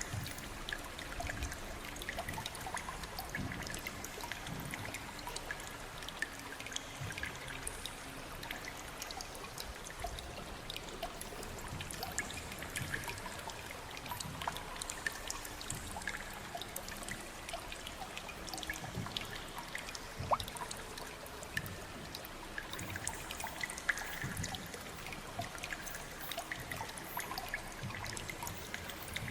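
Steady trickling and splashing of water, with many small drips and plinks scattered through it.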